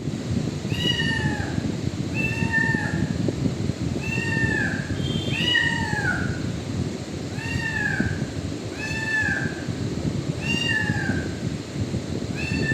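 Kitten meowing over and over, each high call falling in pitch, about every one and a half seconds, over a steady low background rumble.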